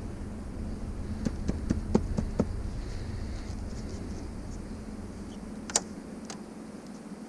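Light clicks and taps from handling a discarded flat-screen TV during a power-on test, a quick cluster of them early on and one sharper click later, over a steady low rumble.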